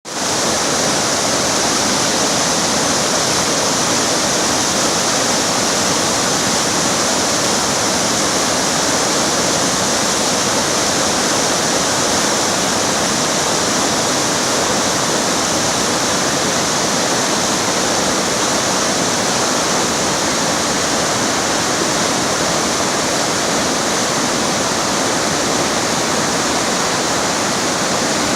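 River water rushing steadily over rocks, a loud, even hiss.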